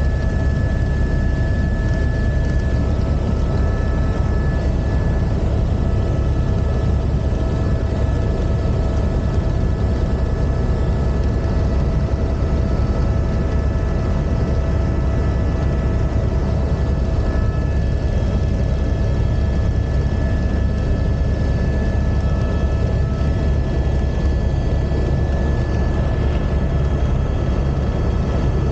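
Helicopter in flight: a steady, loud low rumble with a few thin, steady high-pitched whines over it.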